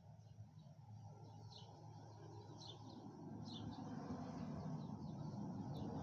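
A bird chirping in the background, short high chirps about once a second, over a low rushing noise that grows louder in the second half.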